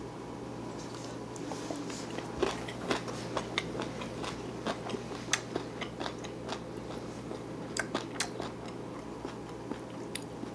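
A person chewing a mouthful of gimbap close to the microphone: many small crisp clicks and crunches, irregular and spread throughout, over a steady low hum.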